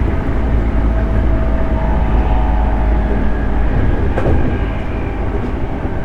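JR 211 series electric train running, heard from inside the car: a steady rumble of wheels on rail with a faint hum of a few steady tones, and a single sharp knock about four seconds in.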